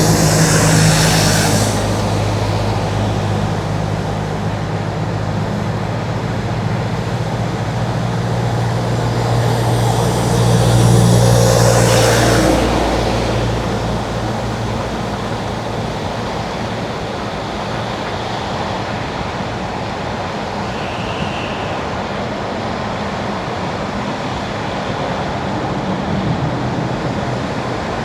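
Car tyres hissing on wet winter asphalt, with steady road noise and a low drone. Twice the hiss of spray swells louder, near the start and again about eleven seconds in. After that the drone fades and the road noise carries on quieter.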